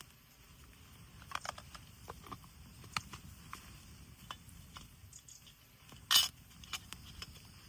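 Scattered light clicks and clinks of small hard objects being handled, with one louder knock about six seconds in.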